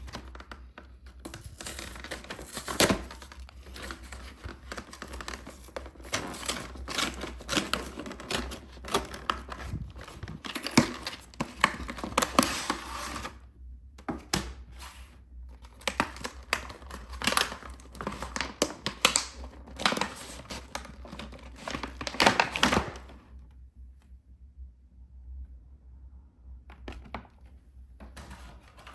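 Plastic packaging being crinkled and torn open, a dense run of sharp crackles that stops about four-fifths of the way through, leaving only a few quieter rustles.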